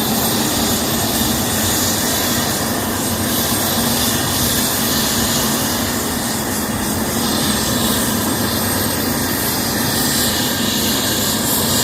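The Antonov An-124's four turbofan jet engines running: a steady, loud jet noise that holds the same level throughout.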